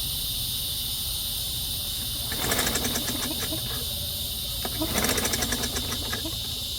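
Lawn mower engine cranked over twice in short bursts, spinning with a fast, even chuff and not catching. It turns over as if it had no compression, which the owner takes for a loose spark plug. Crickets chirp steadily in the background.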